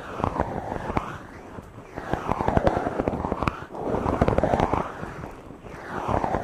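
Hands rubbing and stroking directly on a microphone: close, scratchy rustling in slow swelling strokes about every two seconds, full of crackles and pops.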